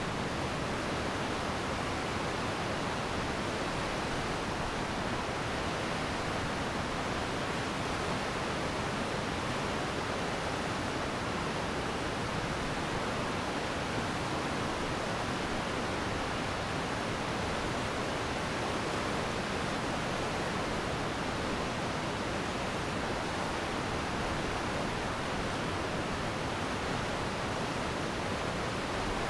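Glacier meltwater stream rushing steadily over stones: an even, unbroken roar of water.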